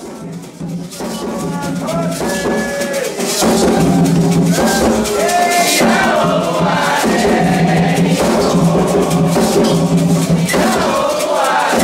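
Candomblé ritual song: voices singing in call-and-response style, joined about three and a half seconds in by atabaque hand drums and rattles, growing louder.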